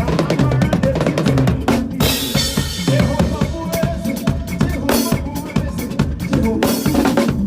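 Drum kit playing a fast makossa groove with bass drum, snare and rimshots, with cymbal crashes and a wash about two seconds in and near the end, over a pitched bass line.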